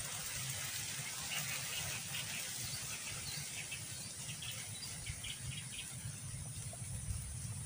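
Outdoor ambience with faint bird chirps: a scatter of short, high calls in small clusters between about one and six seconds in, over a low steady rumble.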